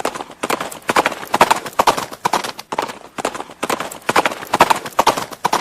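Horse hooves striking the ground in quick groups of several clicks, about two groups a second with short gaps between, like a horse moving at pace.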